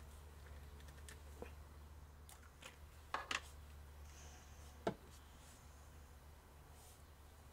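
Faint handling sounds during small-scale painting: a few light clicks and taps, a quick cluster about three seconds in and a single sharper one near five seconds, over a steady low hum.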